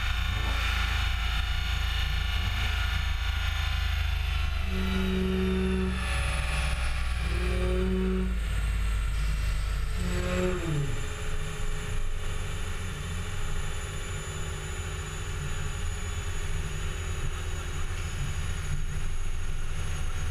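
Vortech-supercharged Nissan 350Z V6 running on chassis dyno rollers, a steady low rumble with a high whine that slowly falls in pitch as it winds down.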